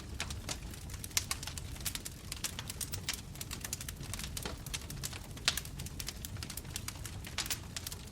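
Wood fire crackling: irregular sharp pops and snaps over a low steady rumble of flames, with a louder pop about five and a half seconds in.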